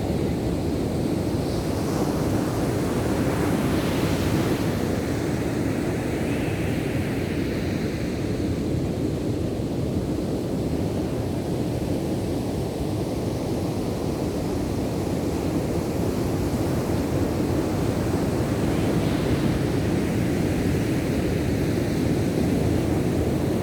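Ocean surf breaking on a beach: a steady, unbroken rush of waves.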